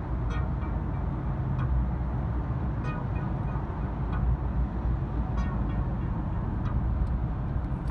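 A steady low rumble with a few faint short clicks.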